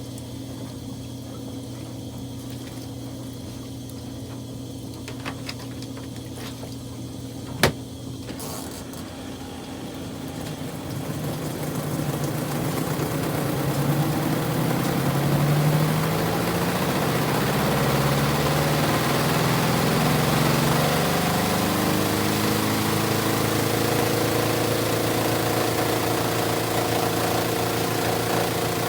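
Kuppet portable washing machine's motor humming steadily, then after a sharp click it starts up and runs louder from about ten seconds in, its hum wavering and climbing before settling into a steady run, as the washer spins up near the end of its cycle.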